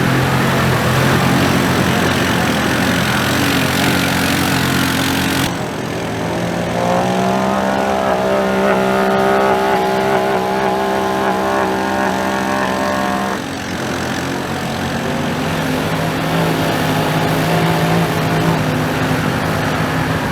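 Side-by-side UTV engine running hard and revving, its pitch rising and falling, with the sound changing abruptly about five seconds in and again past thirteen seconds.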